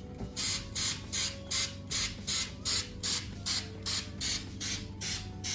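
Aerosol can of Valspar satin paint-and-primer spray paint, sprayed in a quick run of short, even hissing bursts, nearly three a second, as a first coat goes on.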